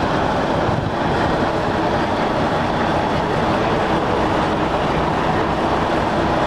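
Heavy truck's diesel engine running with a steady, loud rumble.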